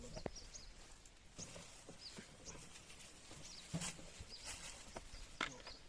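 A small bird chirping, faint short high calls repeated about every half second, with a few scattered knocks.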